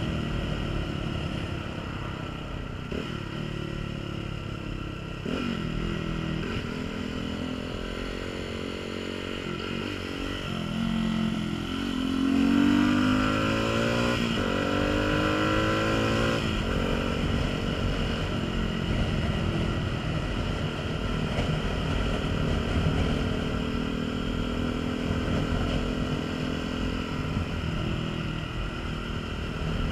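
Honda CBF125's single-cylinder four-stroke engine running on the move, its pitch rising in short sweeps a few seconds in and climbing again in a longer acceleration about halfway through, then holding steady. Wind rumbles on the microphone underneath.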